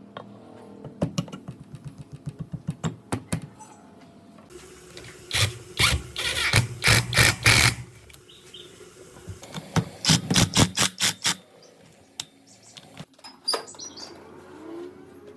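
Bursts of rapid clicking and tapping from hand-tool work in the workshop: a scattered run of clicks, then two dense bursts of quick taps, the second shorter than the first, with a few single clicks near the end.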